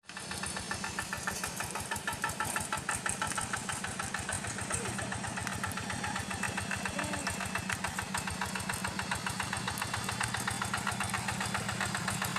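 Rice-paddy hand tractor's engine running steadily with an even, rapid chugging beat.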